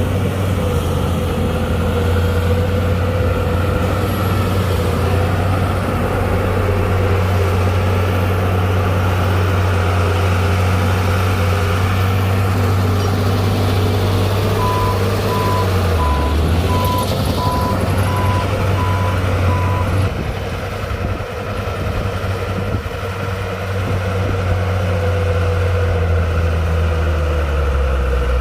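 Heavy diesel earthmoving machinery running steadily with a deep engine hum, its pitch dipping briefly around the middle. A reversing alarm beeps in a regular run for about five seconds at the same time.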